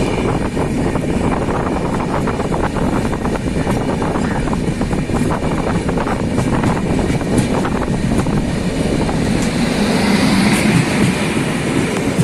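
Netravati Express passenger train running at speed, heard from aboard: a steady rumble of wheels on rails with many sharp clicks, growing a little louder about ten seconds in.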